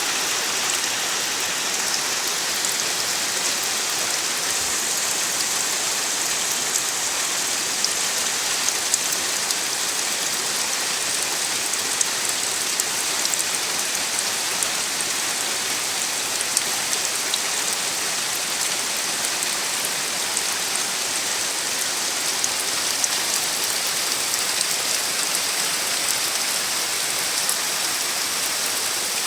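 Steady rain falling: an even, constant hiss with scattered sharp drop ticks.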